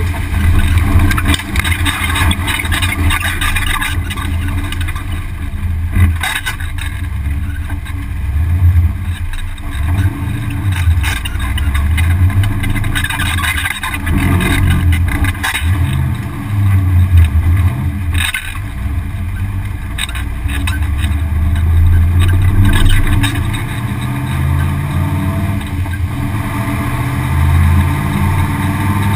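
V8 engine of a Camaro Mustang Challenge race car heard from inside the cabin, running hard and rising and falling in pitch again and again as the car accelerates and shifts, over a steady hiss of wind and wet-road noise.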